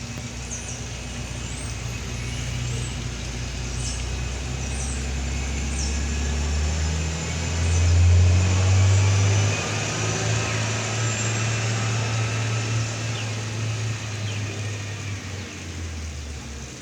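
A steady low rumble that swells to its loudest about eight seconds in and eases near the end, over a steady hiss of storm rain.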